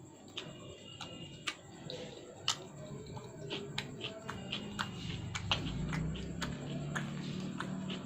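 Close-miked chewing and mouth sounds: many short, wet clicks and smacks in an uneven rhythm, with a low hum underneath from about halfway on.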